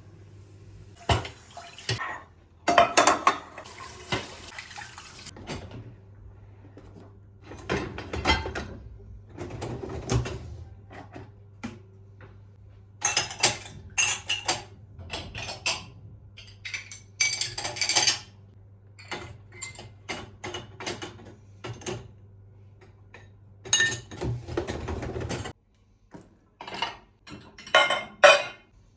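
Kitchen work sounds: dishes, pans and utensils clinking and knocking in irregular bursts. There is a short rush of what sounds like running water early on, and a steady low hum under it all that cuts off a few seconds before the end.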